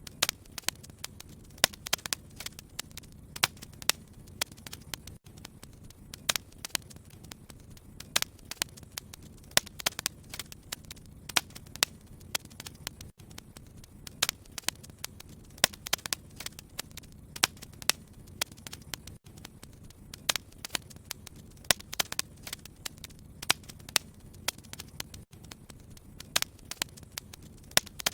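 Wood fire crackling in a fireplace: frequent sharp, irregular pops and snaps over a low steady rumble of the flames.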